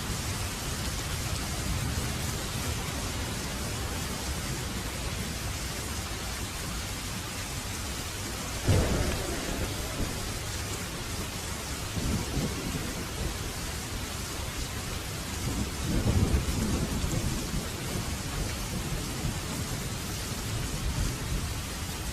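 Heavy rain falling steadily in a thunderstorm. A sudden loud thunderclap comes well before the middle, and two softer rolls of thunder follow a few seconds apart.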